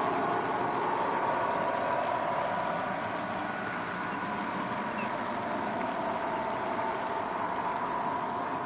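00 gauge model diesel locomotive running: a steady diesel engine sound with a few held tones, from the model's sound decoder.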